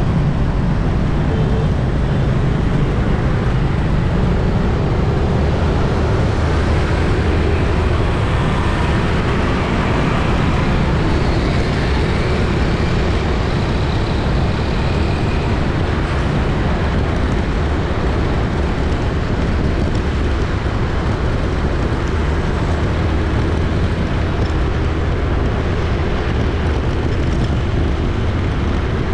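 Steady city street traffic: a dense, continuous rumble of motorbikes and cars passing, with a low engine drone and no single event standing out.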